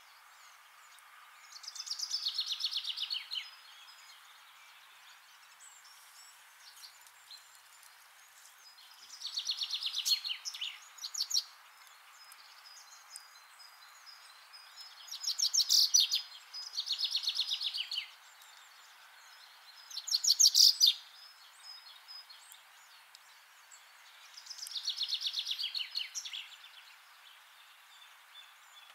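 A songbird singing: about six short phrases a few seconds apart, each a fast run of notes falling in pitch, over a faint steady outdoor hiss.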